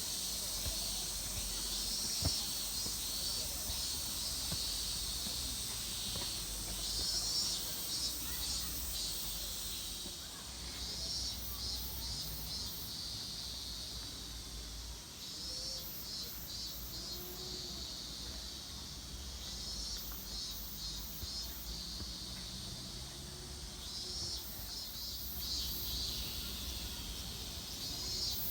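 Summer insects calling outdoors: rapid pulsing trills that come in repeated bursts every few seconds, over a steady low rumble.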